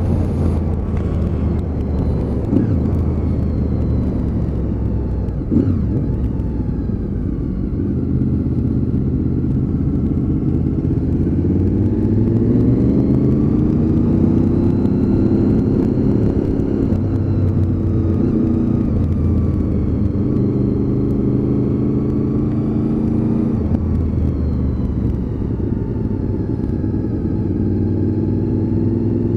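Honda VFR800's V4 engine running under way, heard from the rider's seat. About halfway through the engine note climbs as the bike accelerates, holds high for a few seconds, then eases back down.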